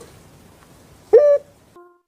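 Puter pelung (ring-necked dove) giving a short coo about a second in that rises in pitch, followed by a brief, fainter, lower note near the end.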